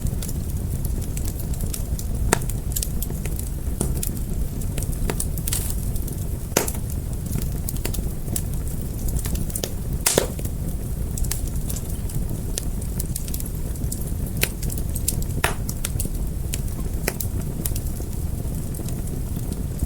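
Fire crackling: irregular sharp pops and snaps over a steady low rumble, with a few louder pops about two, six and a half, ten and fifteen and a half seconds in.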